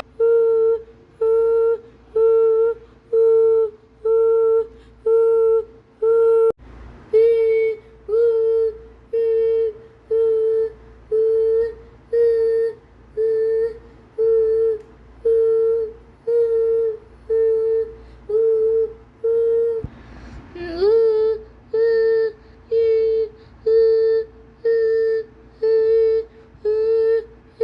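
A high voice singing or humming the same single note over and over, a short held syllable a little more than once a second, at an unchanging pitch, pausing briefly twice.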